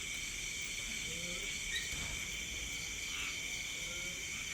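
Steady night chorus of crickets and other insects: several unbroken high-pitched tones layered together.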